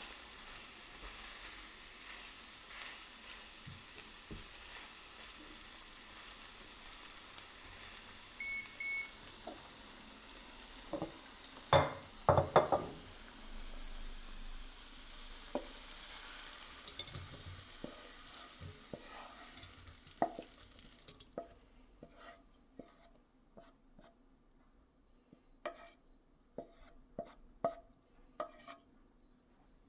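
Fajita filling sizzling in a frying pan while it is stirred, with utensil clicks and a few loud knocks near the middle, and two short beeps. About two-thirds of the way through the sizzle stops, leaving scattered light taps and clinks.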